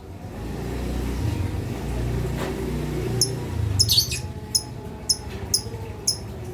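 Lovebirds calling: short, shrill chirps repeating about twice a second, starting about three seconds in, over a low rumbling noise that fills the first half.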